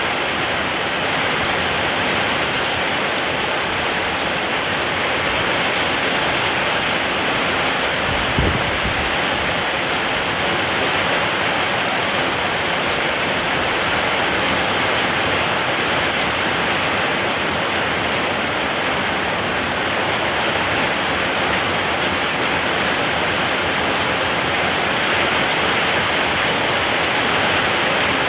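Steady rain falling, an even hiss with no breaks, with one brief low thump about eight seconds in.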